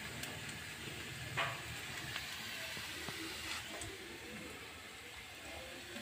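Faint steady hiss of sliced onions frying in oil in a steel wok on a gas stove, with a couple of light knocks about one and a half and three and a half seconds in.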